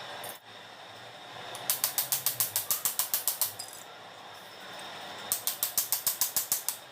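Ratchet wrench clicking in two quick runs of about eight clicks a second, as bolts on a car's wiper linkage are worked loose.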